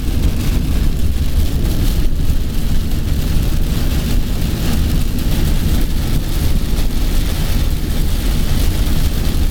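Heavy rain on a moving car, with steady road and tyre noise and a low rumble.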